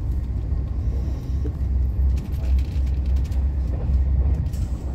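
Steady low rumble of a moving electric train heard from inside the carriage, with a few light clicks in the second half.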